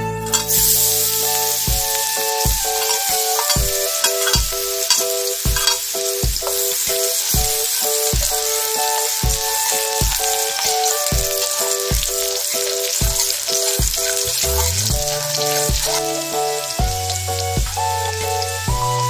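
Minced garlic sizzling in a little hot oil in a wok, stirred with a metal spatula. The sizzle starts about half a second in, when the garlic goes into the oil. Background music with a steady beat plays underneath.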